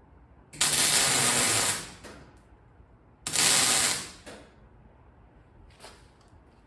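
Two short bursts of welding, each a crackling hiss that cuts off after about a second, the second shorter than the first.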